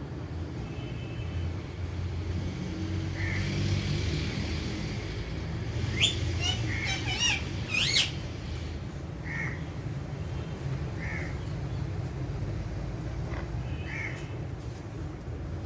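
Alexandrine parakeets calling: short chirps every couple of seconds and, about six seconds in, a quick run of loud, shrill squawks lasting about two seconds, over a steady low rumble.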